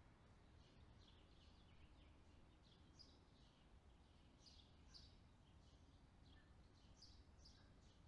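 Faint, short, high bird chirps, about two a second and irregular, over a low steady background rumble.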